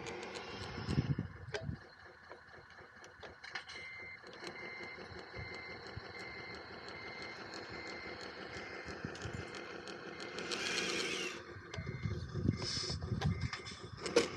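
Reversing-alarm beeps from a radio-controlled construction truck, a short high beep about twice a second, over the steady whine and clatter of model machinery. A hiss comes in briefly about eleven seconds in, and low knocks follow near the end.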